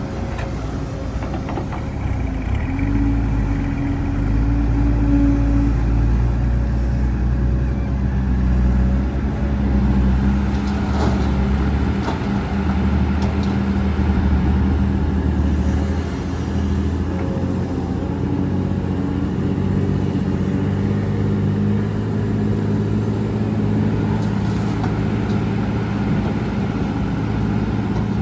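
Heavy diesel earthmoving machinery running steadily with a deep engine hum. It works harder for several seconds in the first half, and there are a few faint knocks about eleven seconds in.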